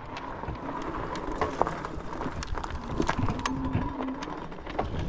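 Truck rolling slowly, with scattered sharp clicks and knocks over a low rumble and a brief low hum about three seconds in.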